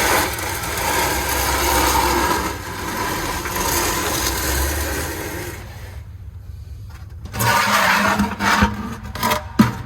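Oil drain bucket scraping and rubbing along the shop floor as it is shoved into place, for about five seconds, then a short lull and more scraping and handling noise.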